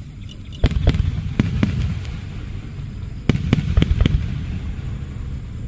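Aerial firework shells bursting in quick volleys: a cluster of sharp bangs about a second in and another just past three seconds, over a continuous low rumble of booms and echoes.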